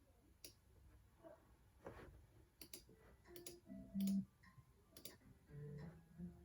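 Computer mouse clicks, a scattered series of sharp single clicks, with brief low tonal blips in between, the loudest about four seconds in.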